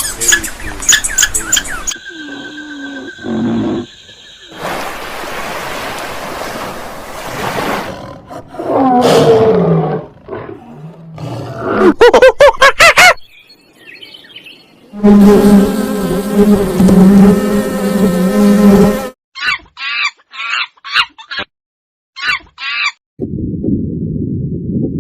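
A string of different animal calls and cries, each cut off abruptly as the next begins. The calls include pitched cries, calls gliding up and down, a stretch of rapid repeated chirps, and short silent gaps between some clips.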